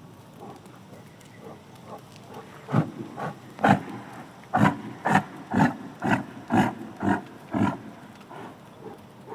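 An animal giving a run of about ten short, rough calls, roughly two a second.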